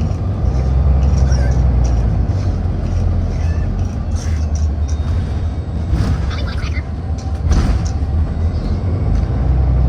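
City bus running, heard from inside: a steady low engine and road rumble that eases somewhat midway and builds again near the end.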